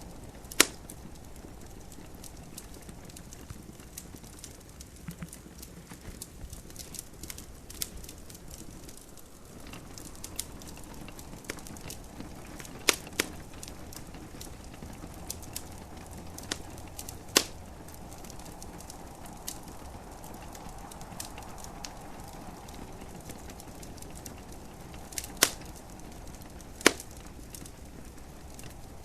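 Wood fire crackling in a fireplace, with scattered sharp pops, the loudest near the start, around the middle and twice near the end, over a steady hiss of gentle rain.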